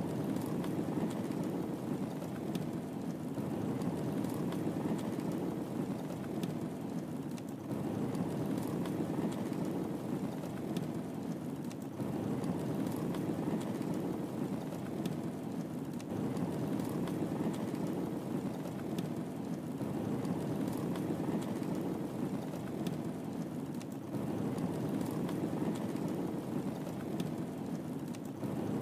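Wood fire in a fireplace crackling, with frequent small sharp pops and snaps over a steady low rush of burning.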